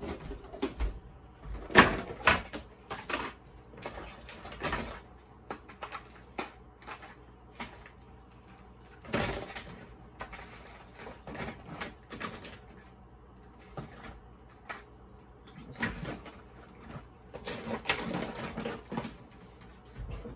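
Handling noises: scattered clicks, taps and knocks of plastic parts, batteries and packaging being handled, in clusters about 2 s, 9 s and 16–19 s in.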